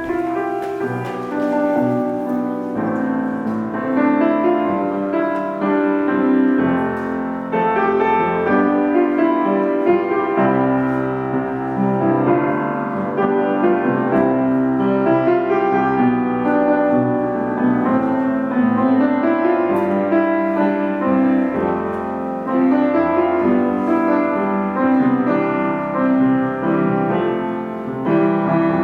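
Piano playing a continuous tune over held chords, as prayer music.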